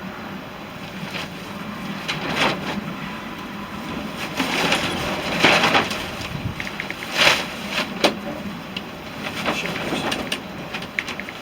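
Steel striker scraped down a flint in a handful of irregular strikes to throw sparks onto char cloth in a tin, with a few quick rapid clicks between them, over a steady rush of wind flapping a tarp.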